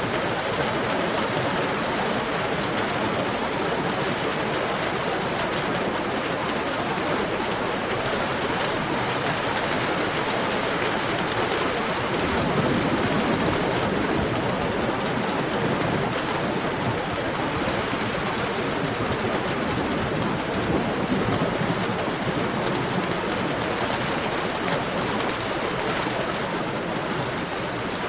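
Heavy rain falling steadily, a dense even hiss with a few brief low swells.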